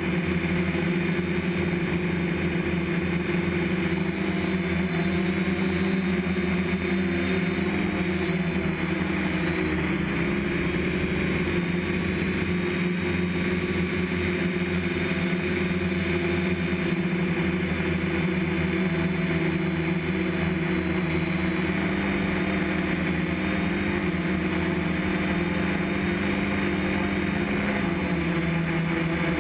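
DJI F550 hexacopter's electric motors and propellers humming steadily in flight, the pitch of the hum drifting slightly as the throttle changes.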